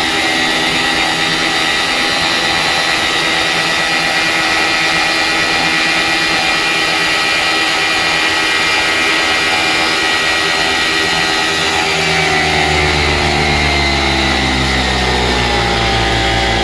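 78cc Vittorazi Atom 80 single-cylinder two-stroke paramotor engine with a tuned expansion-chamber exhaust, turning its propeller at high revs with a steady high pitch. About twelve seconds in, the revs slowly fall away and a deeper rumble comes up.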